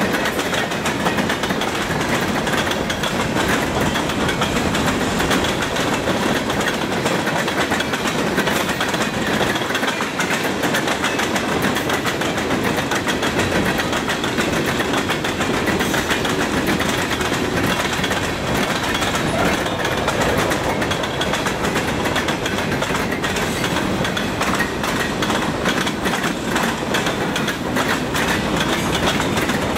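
Freight train of tank cars and covered hoppers rolling past at close range: a steady rumble of steel wheels on rail, with quick clicks as the wheels cross rail joints.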